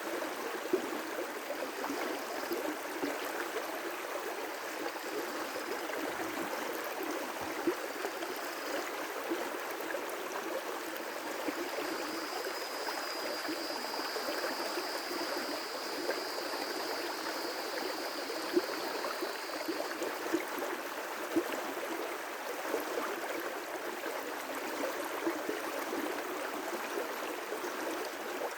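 River rapids rushing steadily, water running over rocks. A thin high tone comes and goes above it and is held for several seconds midway.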